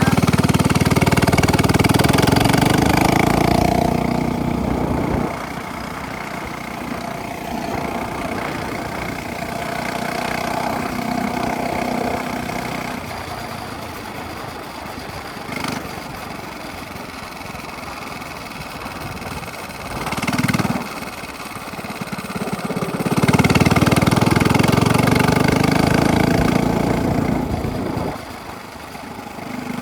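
Minibike's small engine with a straight-pipe exhaust running. It is loud for the first few seconds, quieter through the middle with a brief loud swell, then loud again near the end.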